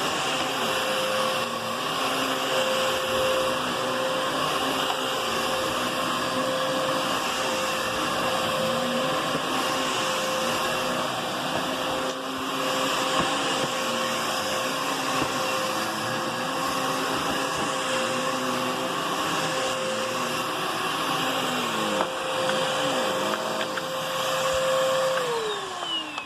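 Hoover Whisper Cyclonic vacuum cleaner running with a steady motor whine and a lower tone that wavers up and down. Near the end it is switched off and the motor winds down in a falling whine.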